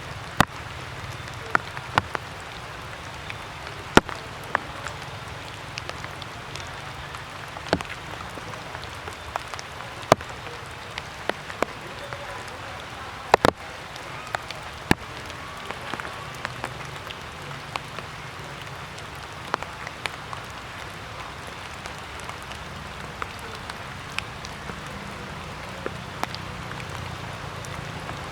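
Rainwater dripping from wet tree leaves after a shower: irregular sharp drops, a few loud ones, ticking onto leaves and ground over a steady low hiss.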